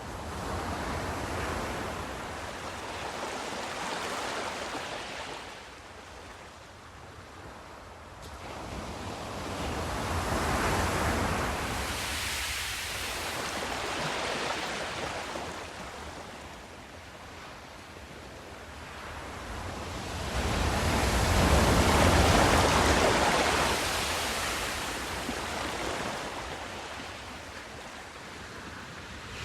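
Sea waves washing in slow surges, the rushing noise rising and falling about every ten seconds, loudest about two thirds of the way through.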